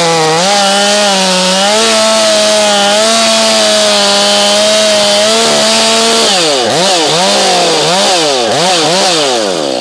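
Portable bandsaw mill's engine running steadily under load while the blade cuts through a hardwood log. About six seconds in, the engine speed starts dipping and rising again, four or five times in quick succession.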